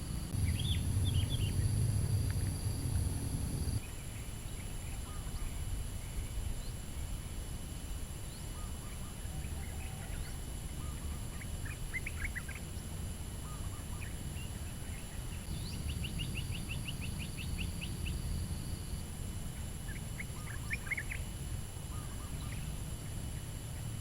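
Small birds chirping in short scattered calls, with one quick trill of about a dozen notes a little past the middle, over a steady low rumble that is louder for the first four seconds.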